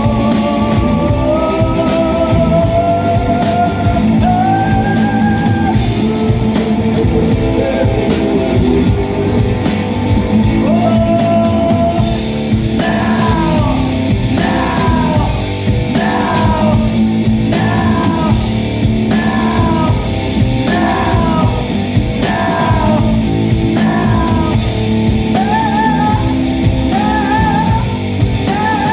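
Rock band playing live: electric guitar, bass and drums with singing. Long held notes give way, about halfway through, to a short falling phrase repeated over and over.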